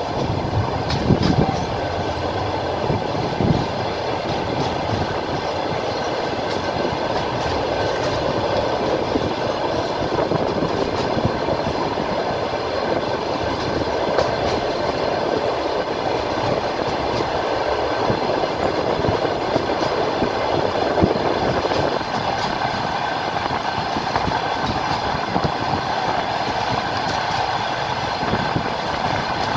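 Passenger train carriage running along the line: a steady rumble and rush of wheels on the rails, with a few clacks over rail joints in the first few seconds. The tone of the rumble shifts about two-thirds of the way through.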